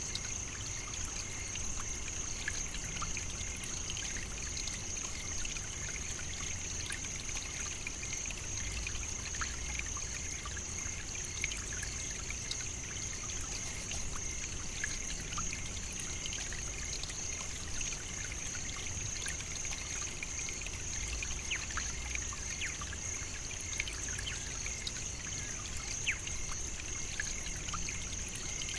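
African savannah nature ambience: a steady high-pitched hiss that does not let up, with many faint scattered ticks and clicks and a low rumble underneath.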